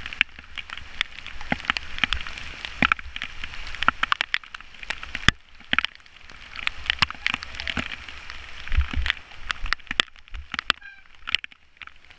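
Rain falling, with many drops striking close to the microphone as irregular sharp taps, over a low rumble of wind on the microphone.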